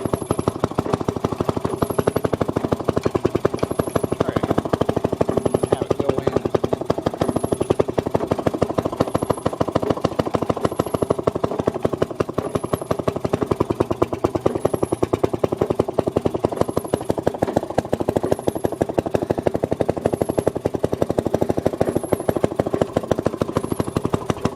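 Maytag Model 92 single-cylinder two-stroke engine running steadily with a fast, even firing beat, driving the washer and its wringer.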